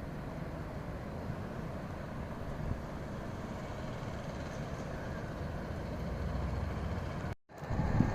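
Steady low vehicle rumble. Near the end the sound drops out for a moment, then a louder, deeper rumble starts.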